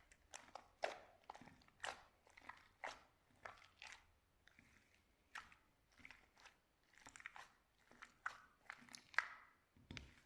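Slime being pressed and squished by hand, giving a string of short, crisp pops and crackles, irregular at roughly two a second.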